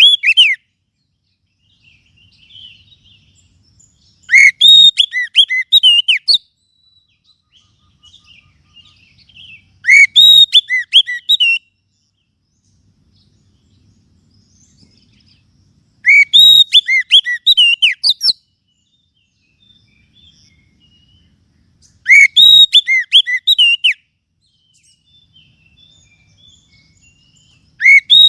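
Oriental magpie-robin call, used to lure wild birds. A short phrase of rapid whistled notes comes about every six seconds, each phrase lasting about two seconds, with quiet gaps between.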